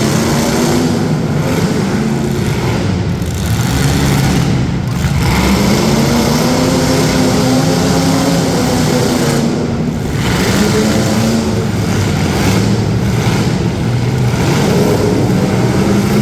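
Several demolition derby cars' engines revving hard at once, their pitch repeatedly rising and falling.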